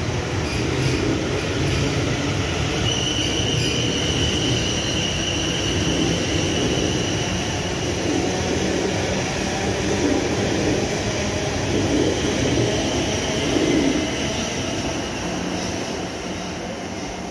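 A train running along the line: a steady rumble, with a high, steady squeal from about three seconds in until about nine seconds.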